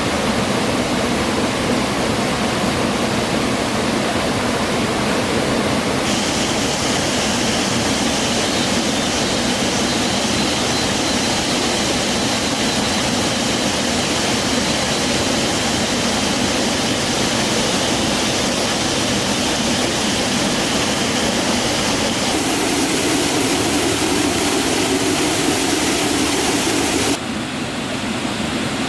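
Rushing water of a stream or waterfall, a steady loud hiss. Its tone changes suddenly three times.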